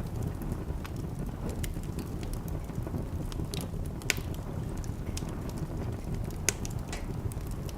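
Wood fire crackling: scattered sharp pops and snaps over a steady low rumble of burning, with two louder pops about four seconds in and again about two and a half seconds later.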